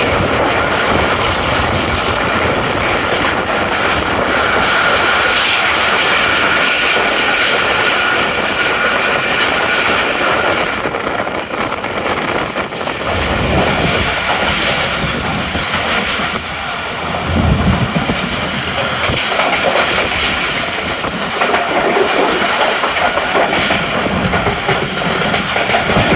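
Tezgam Express passenger train running along the track, with the steady rumble and clatter of wheels over rail joints and a thin high squeal over it. There are heavier low knocks about halfway through and again a few seconds later.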